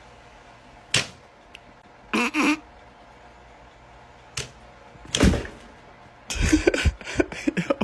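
A few separate knocks and thumps, with a short pitched sound a couple of seconds in, then a rapid clatter of knocks over the last second and a half.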